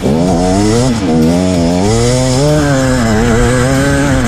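Dirt bike engine revving hard, its pitch rising and falling several times as the throttle is worked on a slippery climb.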